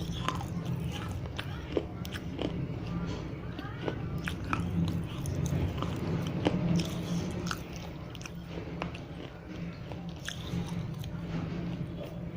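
Teeth biting and chewing dry fired red clay diyas: the brittle clay cracks in scattered sharp crunches, close to the microphone, over a steady low hum.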